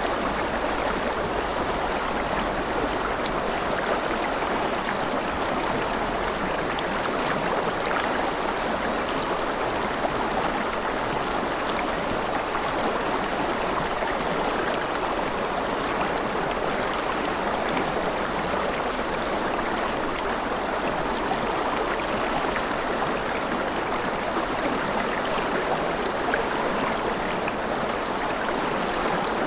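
River water flowing and splashing in a steady, even rush, with small gurgles and trickles.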